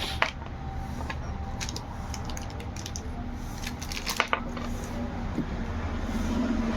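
Light metallic clicks and taps of small tool parts being handled, a sharp click about a quarter second in and a quick cluster of clicks around four seconds in, over a low steady rumble.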